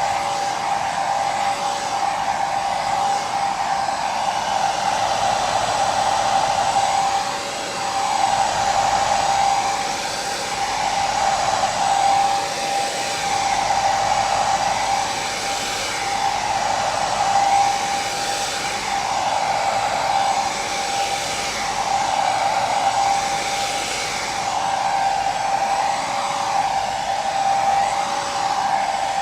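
Hair dryer running steadily: a continuous rush of air with a steady motor whine, the sound wavering slightly every couple of seconds.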